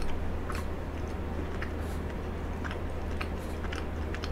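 Close-miked chewing of a mouthful of frozen cheesecake, with small crisp crunches of the icy cake about every half second over a low steady hum.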